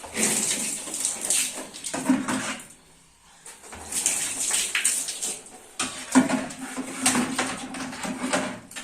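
Water running and splashing in uneven spells, with brief lulls, as in washing things by hand.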